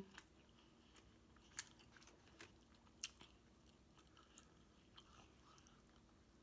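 A person chewing a mouthful of food with the mouth close to the microphone: a few faint, scattered wet clicks and smacks.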